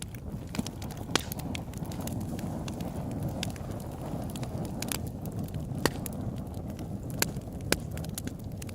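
Open-air wood fire crackling, with irregular sharp pops, the loudest about a second in, near six seconds, and twice between seven and eight seconds, over a steady low rumble.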